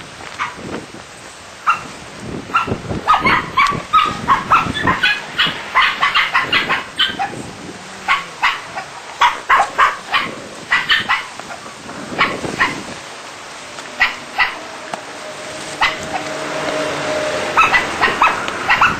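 A dog making many short, rapid barks and yips, sped up and pitched high by double-speed playback. Near the end, a steady hum and rising hiss come in under them.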